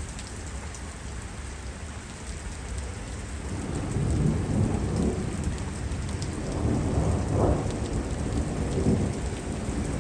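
Heavy thunderstorm rain falling steadily, with thunder starting to rumble a few seconds in and rolling on in waves, growing louder.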